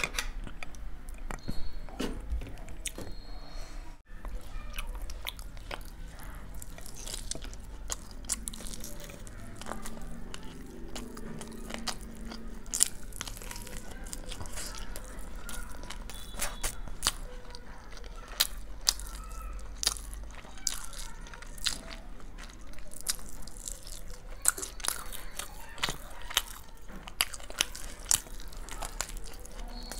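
Close-up eating sounds: chewing and biting mouthfuls of chicken biryani eaten by hand, with many small sharp mouth clicks at an uneven pace.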